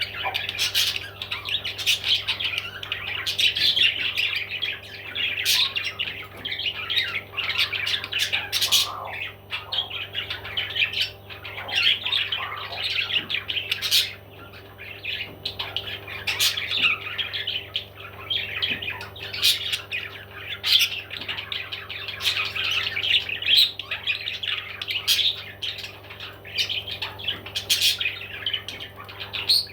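Parrot squawking and chirping in dense, nearly continuous calls with sharp clicks between them, over a steady low hum.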